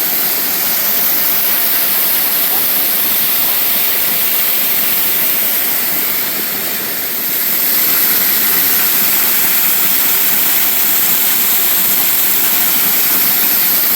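Waterfall flowing strongly: a steady rush of falling water that eases slightly for a moment about halfway through.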